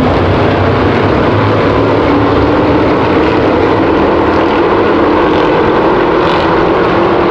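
A field of V8 stock cars and race trucks running at racing speed, their engines making a loud, continuous drone whose pitch slowly creeps upward over a few seconds.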